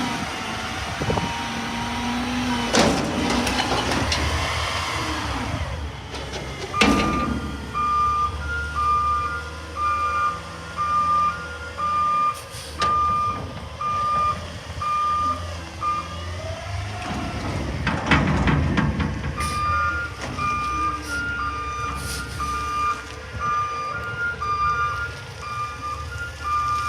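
Garbage truck's back-up alarm beeping while it reverses, in two alternating pitches about once a second, with a gap in the middle, over the truck's engine running. Short bursts of hiss sound in between.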